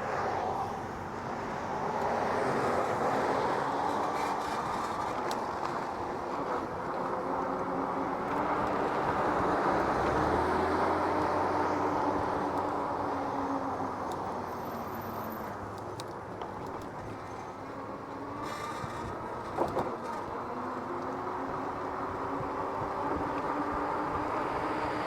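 Road traffic: motor vehicles running and passing close by, their engine pitch gently rising and falling over a steady rush of road noise.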